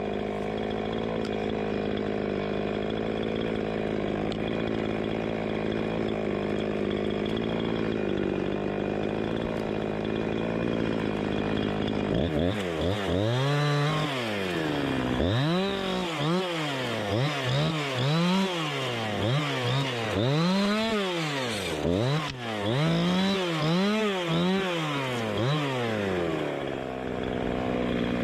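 Chainsaw engine idling steadily, then from about twelve seconds in revved up and down over and over, its pitch climbing and falling every second or two, before it drops back to idle near the end.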